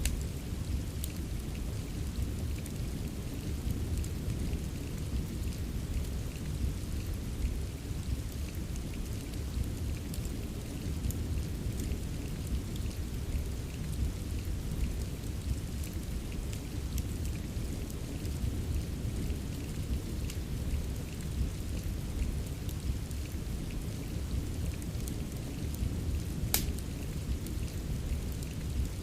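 Steady rain over a deep, even rumble, mixed with the scattered sharp crackles of a wood fire in a fireplace; one louder pop near the end.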